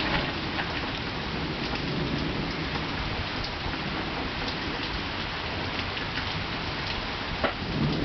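Heavy, nearly vertical summer rain pattering steadily, with single drops ticking close by and low thunder rumbling underneath. One sharper, louder drop-hit comes near the end.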